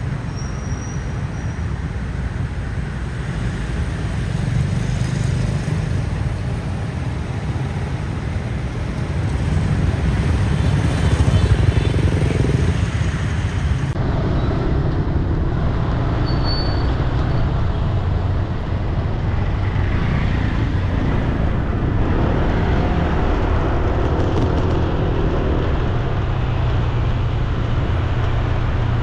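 Road traffic: a steady mix of passing vehicle engines and tyre noise, swelling briefly a little after a third of the way through.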